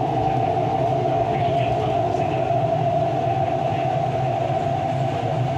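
MTR East Rail line R-Train electric multiple unit running, heard on board: a steady whine from its traction motors over a low, even rumble.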